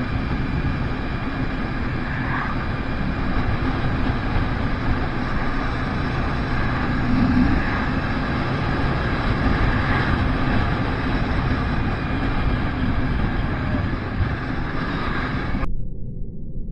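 Motorcycle riding on the road, its engine under a steady rush of wind noise on the camera microphone, with a few slight rises in engine pitch. About a second before the end the sound turns abruptly muffled.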